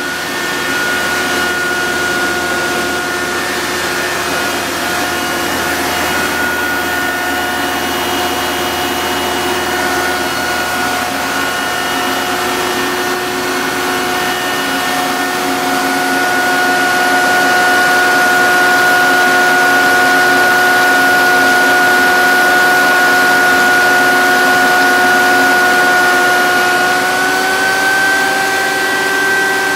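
Leader hydraulic positive-pressure ventilation fan running, a steady rush of air with a whine. The whine steps slightly higher near the end.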